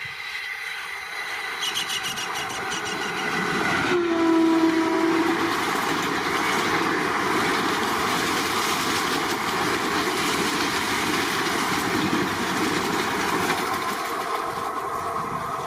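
A train passing close by, growing louder over the first few seconds, with one short horn blast about four seconds in, then the steady rush and clatter of the train going by.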